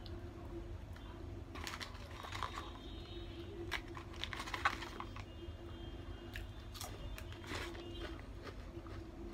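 Close-up chewing of crunchy fried food, with scattered crunches and crackles, the sharpest about halfway through, mixed with the crinkle of a plastic ketchup sachet being handled.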